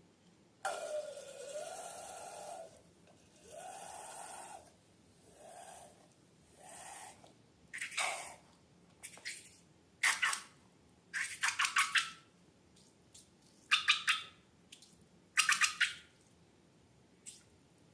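Balloons handled for slime-making: several squealing, wavering releases of air from balloon necks, shorter each time, then a series of short crackly squishes in quick clusters.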